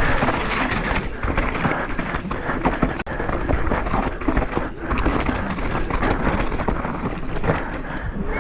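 Mountain bike ridden fast downhill: wind rushing over the microphone and tyres rolling over rough ground, with irregular knocks and rattles from the bike.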